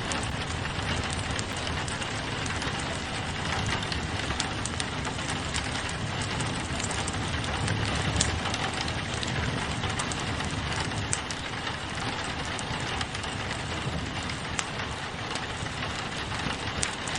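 Steady rain falling on a window, mixed with a crackling wood fire that gives scattered sharp pops. A low rumble runs underneath.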